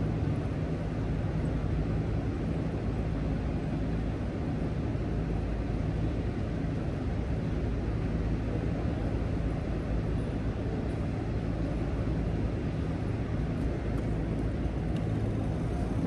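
Steady riding noise from an electric bike on 20x4 INNOVA fat tires at speed: a continuous low hum from the tires on the road, under a rush of wind noise.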